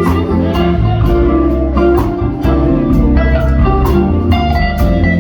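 Live band playing an instrumental passage with electric guitar over bass and drums, a steady blues-flavoured groove.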